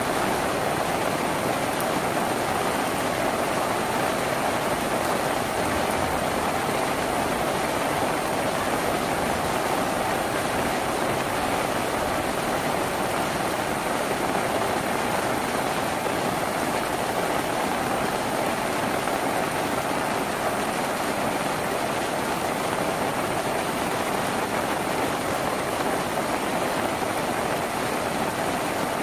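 Steady rain falling on a tin roof, a constant even patter with no single drops standing out.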